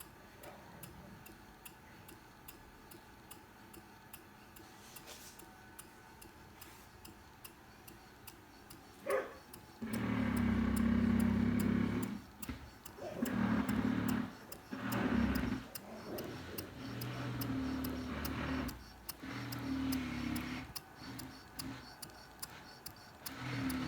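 Model Norden mill steam engine running, its moving parts giving a steady, even ticking. From about ten seconds in, louder irregular rumbling noise comes and goes over the ticking.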